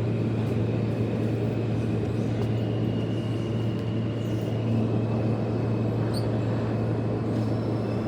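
Steady low hum and noise inside a New York City subway car standing at a station, its ventilation and equipment running, with a faint high whine.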